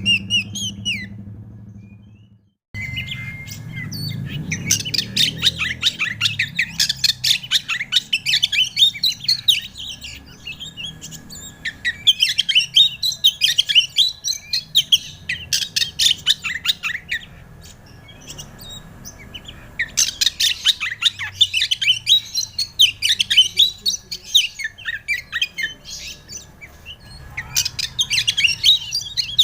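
Oriental magpie-robin (kacer) singing in repeated bouts of rapid, varied chirps and whistles separated by short pauses. The song starts about three seconds in, after a moment of silence.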